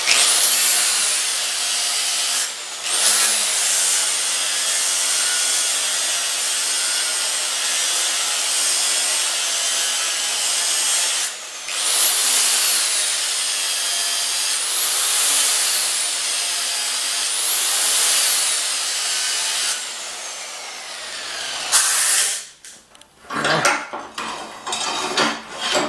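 Power grinder grinding hard on the cutting edge of a steel lawn mower blade, its motor whine sagging and recovering as it is pressed in, taking metal off the heavy side to balance the blade. It lifts off briefly about two and a half and eleven seconds in, stops a few seconds before the end, and is followed by a few metal clinks.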